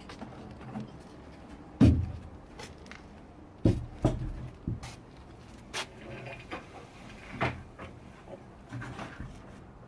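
A series of irregular knocks and clunks of hard objects, about half a dozen, the loudest about two seconds in, with a faint clatter between them.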